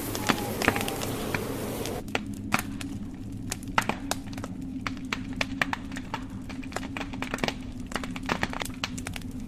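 Wood fire crackling in a fireplace, with frequent sharp pops of burning logs over a steady low rumble. A high hiss of wind cuts off suddenly about two seconds in, leaving the crackle on its own.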